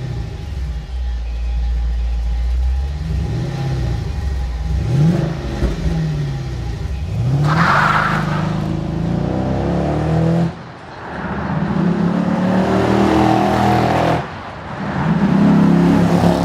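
Dodge Challenger SRT8's 6.1-litre Hemi V8 on its factory exhaust, idling, then revved several times in quick blips, then running hard under heavy throttle with two brief lifts.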